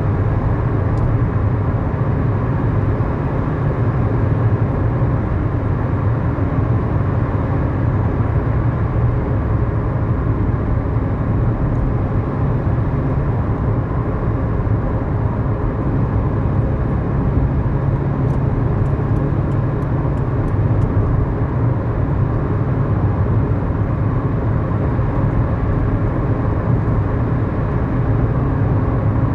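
Inside the cabin, a 2011 Kia Morning's 999 cc four-cylinder SOHC engine runs at a steady drone along with road noise as the car cruises. A short run of faint ticks comes about two-thirds of the way through.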